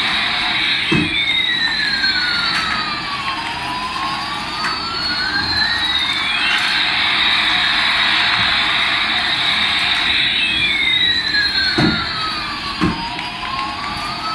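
Electronic jet-engine sound effect from a toy Airbus A380 airliner: a steady jet hiss with a sweeping whoosh that falls and rises again, twice. There are a few soft low thumps, one early and two near the end.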